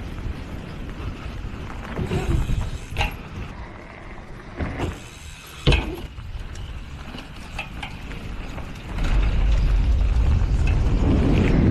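Bicycle freewheel ratchet clicking, with a few sharp knocks, the loudest about six seconds in. A loud low rumble sets in about nine seconds in.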